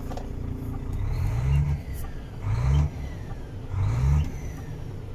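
DAF XF 105.410 truck's six-cylinder diesel engine idling, then blipped three times, each rev rising briefly in pitch before falling back to idle.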